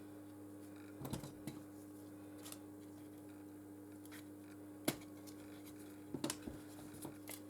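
Scattered small clicks and taps of hand tools against a smartphone's parts as it is taken apart, the sharpest about five seconds in, over a steady low electrical hum.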